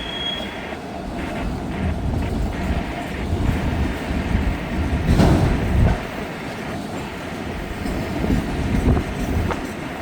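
A freight train of empty auto rack cars rolling past: a steady rumble of wheels on rail, with clacking and a few heavier knocks, loudest about halfway through.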